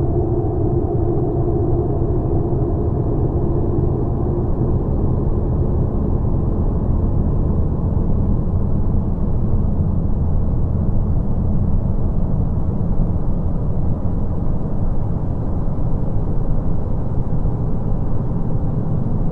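Space audio presented as the sound of Jupiter's moon Europa: a steady, deep rumbling drone. Faint humming tones over it fade out in the first few seconds.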